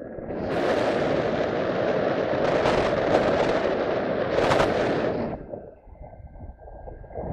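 Wind buffeting the microphone in strong gusts for about five seconds, dropping away for about two seconds, then starting again near the end.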